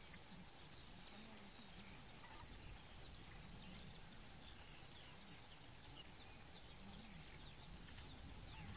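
Faint chirping of small birds, many short calls throughout over a low, steady background hiss.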